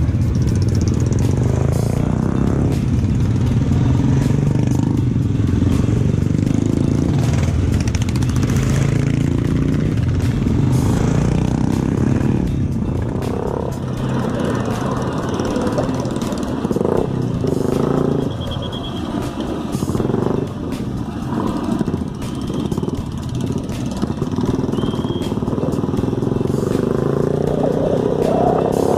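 Motorcycle engines running, with music mixed in.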